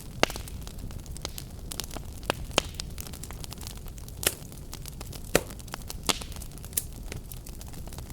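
Fireplace fire burning and crackling: a steady low rumble of flame under irregular sharp pops and snaps, a few standing out louder than the rest.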